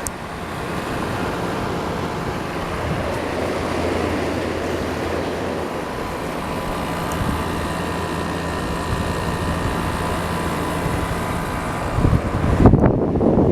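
12,000 BTU LG air conditioner running steadily: a fan's airy rush over a low hum. Near the end a louder, irregular rumble comes in.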